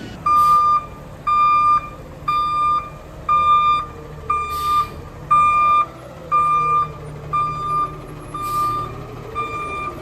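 Garbage truck's reversing alarm beeping, about one beep a second, over the steady running of the truck's engine, with three short hisses.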